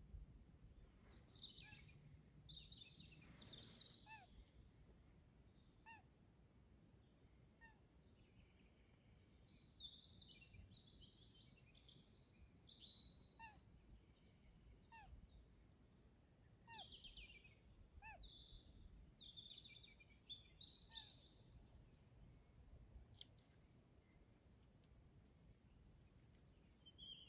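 Faint songbird song: groups of short, high warbling phrases with pauses between them, and soft single falling chirps in between, over a low background rumble.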